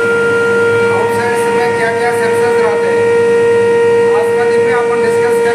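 Induction furnace power panel running, giving a loud, steady high-pitched electrical hum with a stack of overtones.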